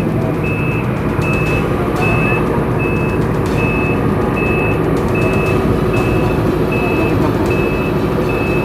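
Heavy machine's travel or reversing alarm beeping steadily, a short high beep about every three-quarters of a second, over the steady running of a diesel engine.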